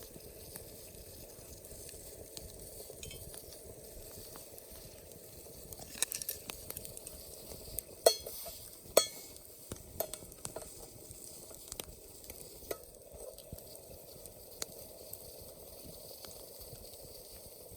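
Food frying in a pan over a campfire: a steady sizzle with a few sharp knocks, the loudest about eight and nine seconds in.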